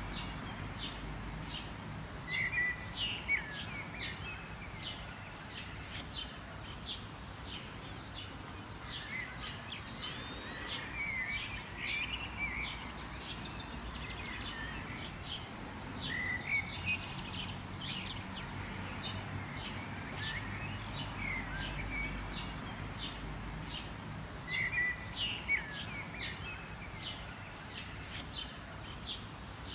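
Several birds chirping and calling together: quick high chirps repeated many times a second, with curving call notes among them, over a steady low background rumble.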